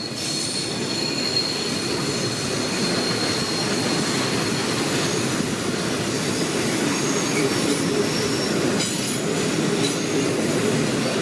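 A passenger train hauled by a diesel locomotive rolls past, its steel wheels squealing on the rails in a high steady whine through the first half, over a steady rumble of wheels on track.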